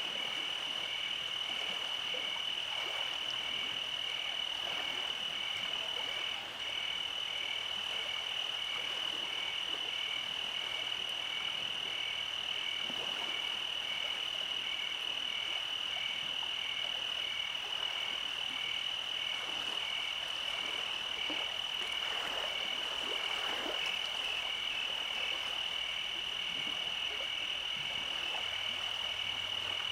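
Night frog chorus: a steady high-pitched trill, with a second call pulsing evenly just below it about three times every two seconds.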